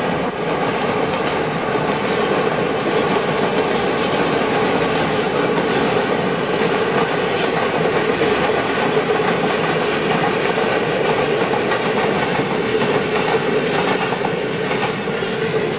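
Train running on the rails: a steady rumble with the clickety-clack of wheels on the track.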